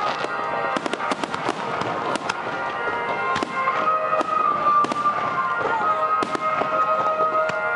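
Fireworks going off in quick succession: many sharp bangs and crackling pops, with steady sustained tones running underneath.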